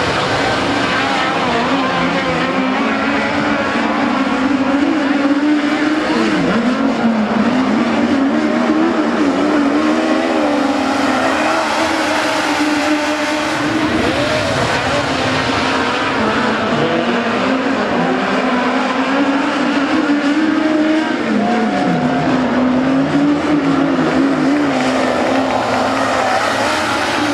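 Midget race cars running at high revs, several engines blending, their pitch dipping and climbing again several times as they lift and get back on the throttle through the turns.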